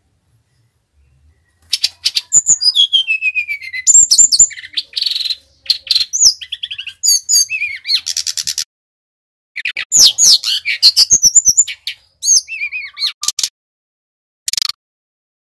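Sikatan rimba dada coklat (brown-chested jungle flycatcher, Bali type) singing loudly in bursts of rapid chattering trills, quick repeated notes and falling whistles, with short pauses between phrases.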